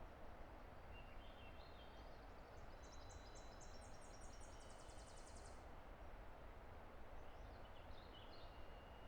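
Faint songbird singing over the steady rush of a distant river: a phrase of rising high notes that ends in a fast, high trill, then a shorter phrase near the end.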